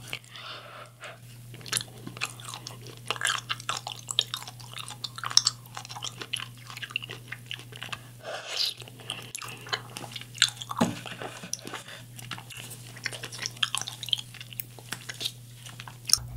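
Chewing and crunching of kiwi popping boba eaten with an edible chocolate spoon, in many short irregular crunches and bites.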